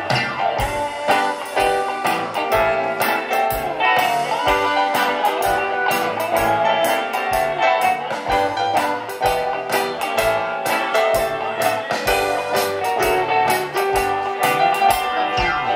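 Live band playing an instrumental passage: guitar over a steady drum beat.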